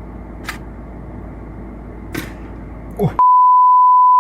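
Steady hiss and low hum of a home-video recording with two faint clicks, then, about three seconds in, a loud steady 1 kHz censor bleep that runs for over a second.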